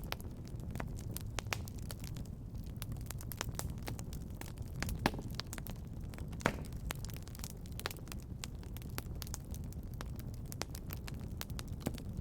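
Wood fire crackling in a fireplace: irregular sharp pops and snaps over a steady low rumble of the flames, with two louder pops about five and six and a half seconds in.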